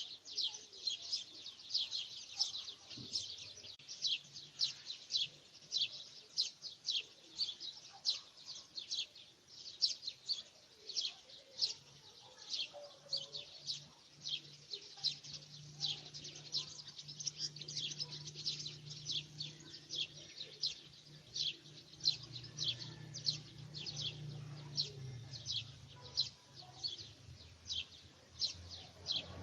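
A bird calling without pause in a fast run of short, high chirps, each sliding down in pitch, about three a second. A faint low hum sits under them through the middle stretch.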